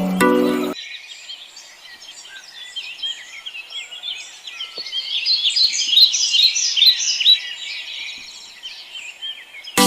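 A chorus of many small birds chirping and twittering in quick, overlapping high calls, busiest in the middle. A bright marimba-like children's jingle cuts off under a second in and comes back at the very end.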